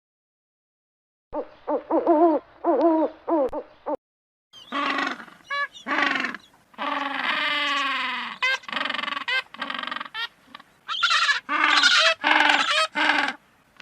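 An owl hooting in a quick series of short notes, then, after a brief gap, a longer run of loud, wavering and trilling calls from another animal.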